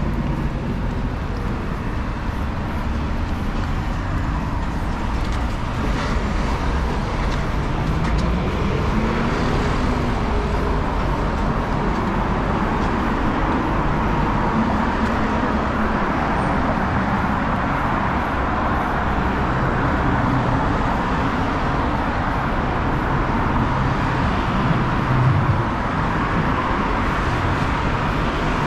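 Steady road traffic: motor vehicles running and passing, with engine hum over continuous road noise.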